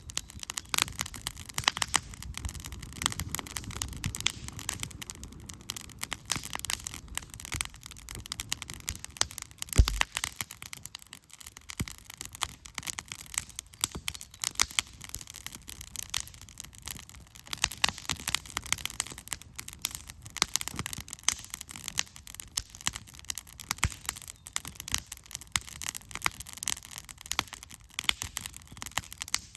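Campfire of firewood burning, crackling with a constant stream of small sharp pops and one louder pop about ten seconds in.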